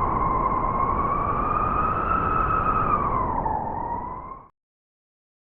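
Blizzard wind howling: a wavering whistle-like tone over a low rumble, cutting off abruptly after about four and a half seconds.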